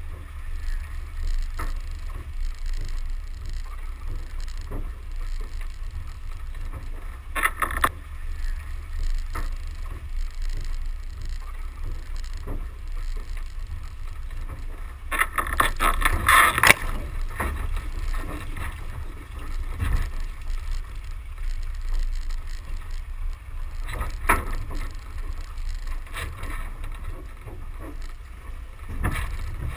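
Four-wheel drive and trailer on a rough dirt bush track, heard at an outside-mounted camera: a steady low rumble of wind and drive noise on the microphone, with several louder rough bursts of noise, the longest about halfway through.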